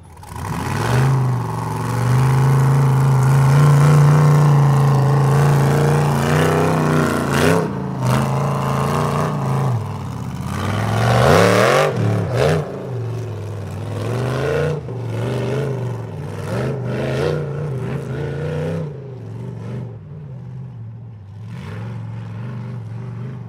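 Off-road truck engine revving hard, its pitch climbing, dropping and climbing again over and over, with some clatter. It is loudest in the first dozen seconds and eases off near the end.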